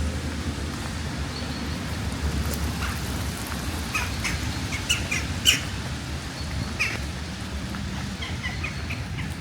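Small birds chirping in short, scattered calls, most of them in the second half, over a steady low city background in the rain.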